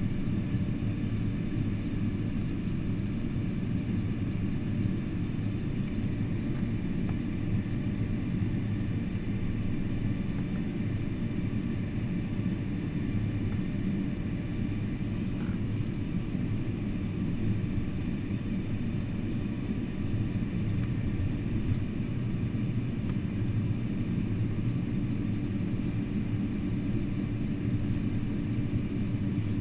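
Steady low rumble inside a Boeing 747-400's cabin on the ground after landing, with faint steady whines above it and no change in level.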